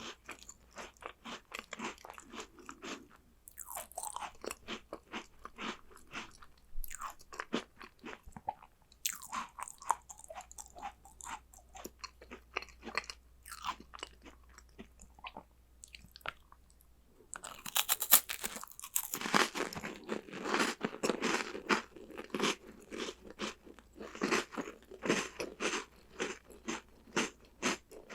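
Close-miked crunching and chewing of crisp chocolate snacks: dense crackly bites and chews, with a louder, busier stretch about two-thirds of the way through.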